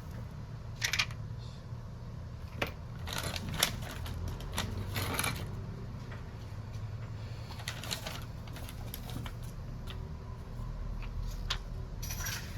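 Scattered small clicks and short scrapes of tools and parts being handled on a smartphone under repair, over a steady low hum.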